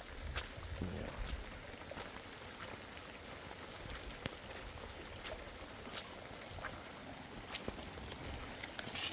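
Rain falling: a steady hiss with scattered drop ticks.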